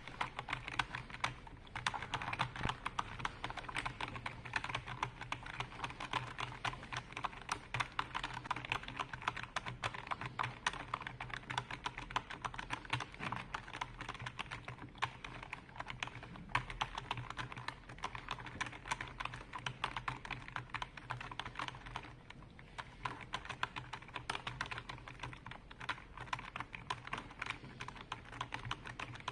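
Continuous fast typing on a computer keyboard: a dense, irregular stream of key clicks.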